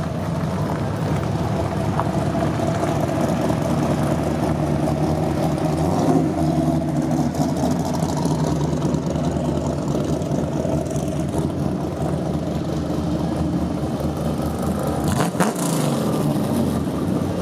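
Car engine running steadily, with a rise in revs about six seconds in and a short burst of noise near the end.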